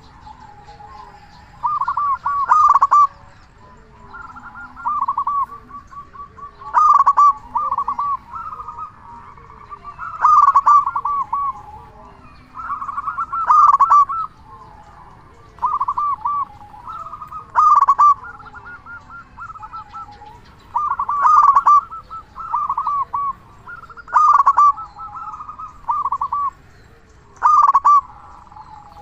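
Zebra dove (perkutut) cooing steadily: short rolling phrases of quick, stuttering notes, repeated every few seconds.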